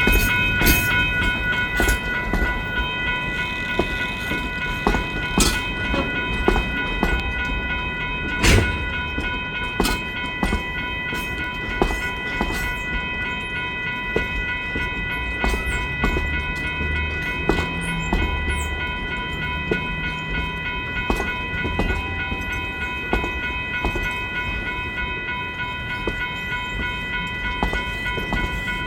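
Durango & Silverton steam locomotive No. 493 backing a train at low speed: irregular clicks and clanks from the wheels and cars over the track, over a low rumble, with a steady high whine.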